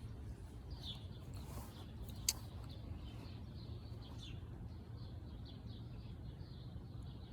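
Small birds chirping, with a quick run of short repeated notes in the second half, over a steady low rumble. One sharp click comes a little after two seconds in.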